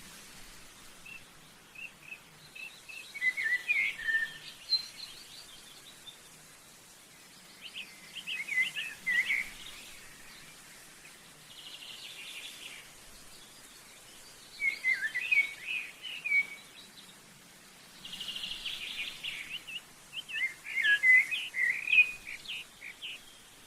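A small songbird singing: repeated phrases of quick, varied high chirps and twitters, each a second or two long and a few seconds apart, with a few buzzier passages between them.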